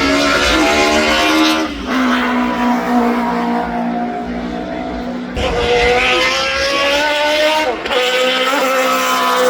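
A performance car engine running hard under acceleration, with a loud note whose pitch drops and climbs. There are sudden changes about two, five and a half and eight seconds in.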